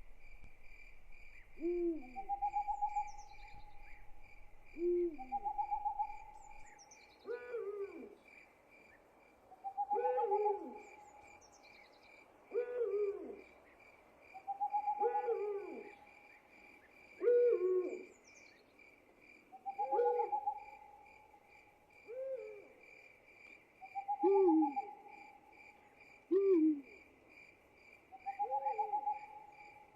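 Night ambience: owls hooting in short, repeated calls about every two seconds, over a steady pulsing chorus of crickets.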